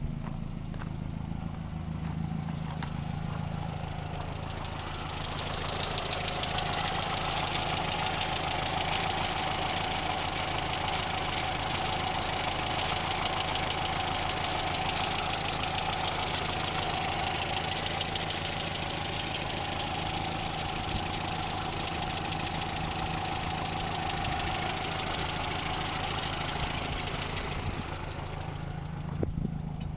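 A 2000 VW Passat's turbocharged four-cylinder engine idling steadily. From about five seconds in, a loud hiss with a steady whine joins it and fades again near the end, followed by a single knock.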